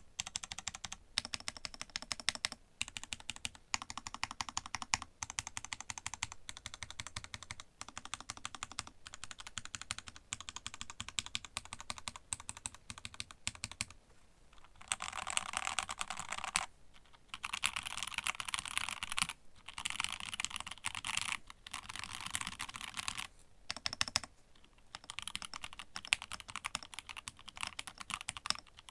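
Typing on a custom TGR x Linworks Dolice mechanical keyboard with an aluminium plate, lubed and filmed broken-in Nixie switches, and GMK keycaps, striking alpha and modifier keys in a steady stream of clacks. The typing gets faster and denser for several seconds about halfway through, after a short pause.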